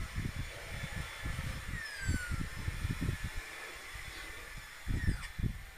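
White-winged choughs calling: one clear falling whistle about two seconds in and a shorter falling call about five seconds in. Low rumbling thumps run underneath throughout.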